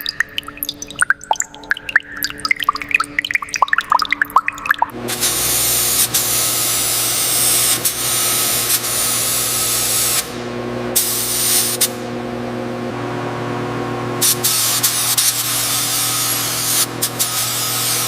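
Water dripping and pattering in quick drops, then about five seconds in a paint spray gun starts hissing over a steady low hum. The spray cuts out briefly twice before running on.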